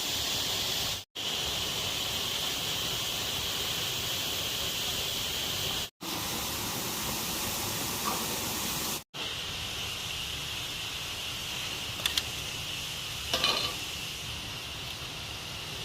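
Steady rushing of a waterfall, broken by three brief silences, with a couple of short knocks near the end.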